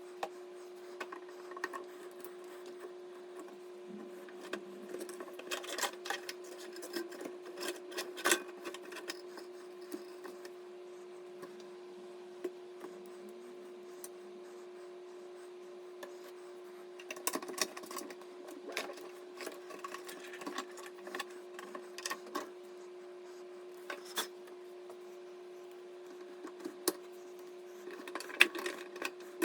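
Scattered clicks, taps and rubbing of hands handling computer parts during a PC assembly, in clusters with pauses between, over a steady low hum.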